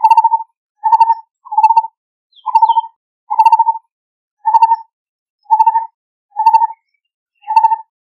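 Lineated barbet calling: a steady series of short, hollow, low notes, each with a quick rapid pulse to it, repeated about once a second.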